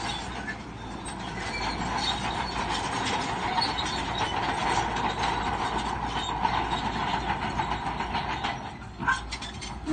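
Shantui crawler bulldozer running, its diesel engine under the steady clank and rattle of its steel tracks. A sharp knock comes about nine seconds in, after a brief lull.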